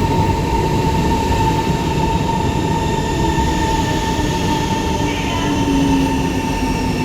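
C151 metro train pulling in and braking, with steady wheel and rail noise. Its traction motors give faint whines that fall slowly in pitch over a steady high tone.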